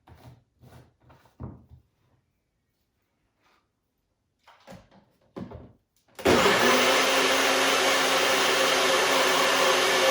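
Electric blender switched on about six seconds in, its motor running steadily at full speed as it blends banana, coconut milk and peanut butter with water. Before it, a few faint knocks.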